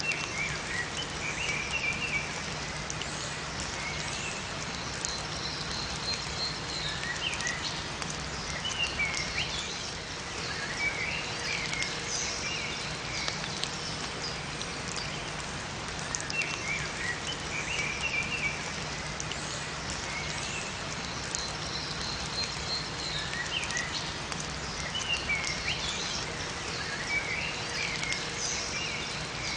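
Steady rain with small songbirds chirping in short clusters of high notes. The same bird phrases come back about every 15 seconds.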